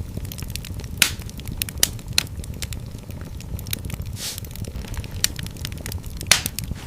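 Fire crackling in a fireplace: a steady low rumble of flames under a dense run of small crackles. Louder pops come about a second in, twice around two seconds, and shortly before the end, with a brief hiss a little past four seconds.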